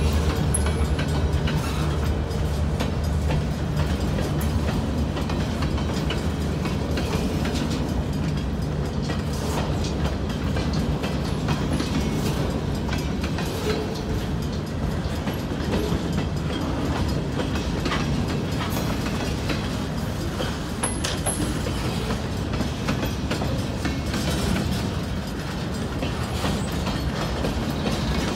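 Freight cars of a Central Maine and Quebec Railway train rolling past: a steady rumble of wheels on rail with irregular clacks as the wheels cross rail joints. The low rumble is strongest in the first ten seconds or so, then eases.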